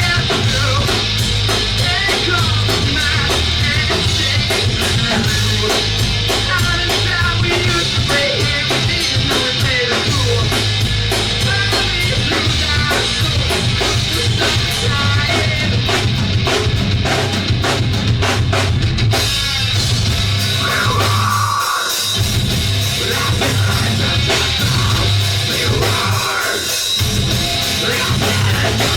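Live rock band playing loud, with the drum kit prominent, heard through a camera microphone in the venue. The bass and drums drop out briefly twice near the end.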